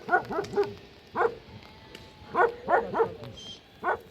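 A dog barking repeatedly in short, sharp barks, several in quick succession at the start and again in clusters later on.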